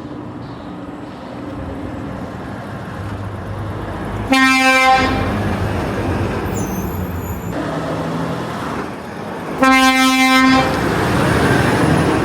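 Trucks passing with engine and tyre noise, and a truck horn blasting twice: a short toot about four seconds in and a slightly longer one near ten seconds in.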